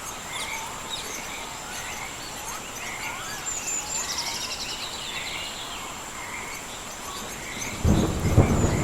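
Birds chirping and singing over a steady hiss of rain, with a steady high whine. Near the end, a sudden loud rumble of thunder breaks in.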